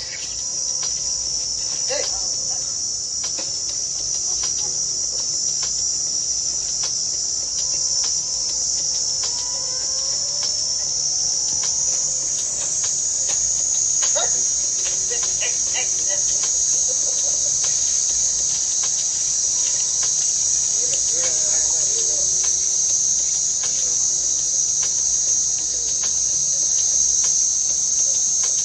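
Steady, high-pitched chorus of insects, an unbroken shrill drone, with faint scattered clicks and short chirps beneath it.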